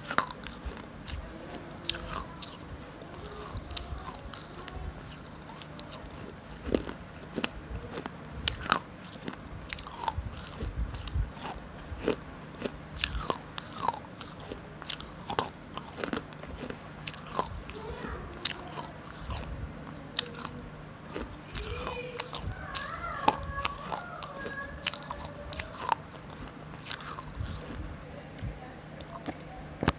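A person crunching and chewing food close to the microphone, with irregular sharp bites and crunches throughout.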